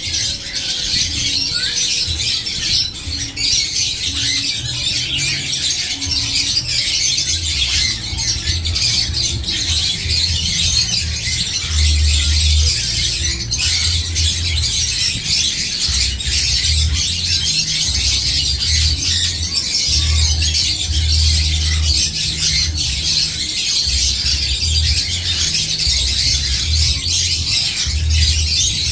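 Dense, continuous chatter of chirps and squawks from many birds, including harsh calls from the baby hill mynas being held. An uneven low rumble comes and goes underneath.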